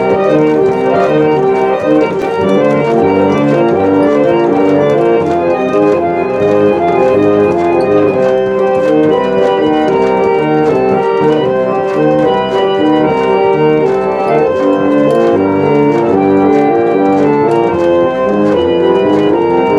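Restored reed pump organ being test-played: a tune in sustained chords, loud and continuous, the notes changing every half second or so.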